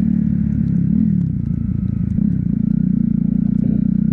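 Motorcycle engine running while riding, its pitch rising and falling slightly about one and two seconds in.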